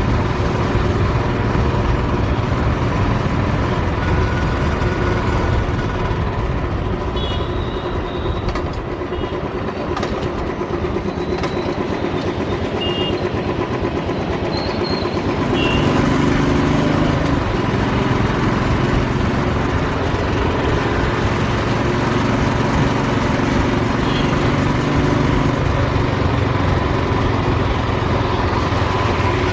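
Royal Enfield single-cylinder motorcycle engine running under way, with a dense steady pulse. It eases off about eight seconds in and pulls harder and louder from about sixteen seconds.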